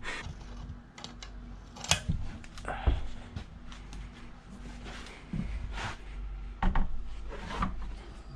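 Scattered clicks, knocks and rubbing from hands working on a motorcycle wheel and handling small tools, with a few sharper knocks about two, three and nearly seven seconds in.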